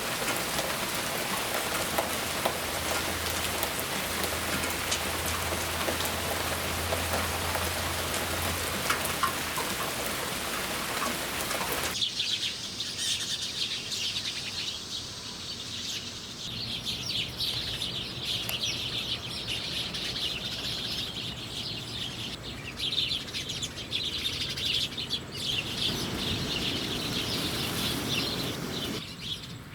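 Steady rain for about twelve seconds, then it stops abruptly and birds chirping take over.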